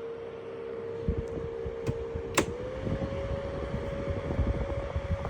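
Mistral model 1110 box fan running, its motor giving a steady hum over a gusty low rumble of moving air. About halfway through there is a sharp click, after which the hum glides up slightly in pitch and holds there.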